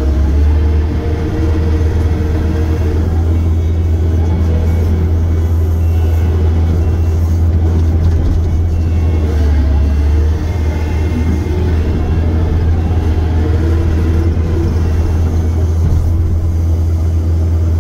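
Diesel engine of a piece of construction equipment running steadily with a strong low hum.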